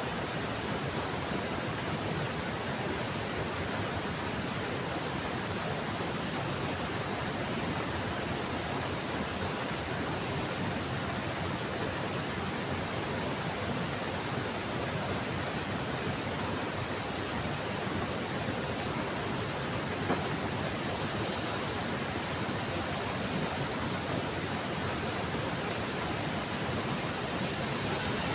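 Heavy rain falling as a steady, even hiss, with one brief tap about two-thirds of the way through.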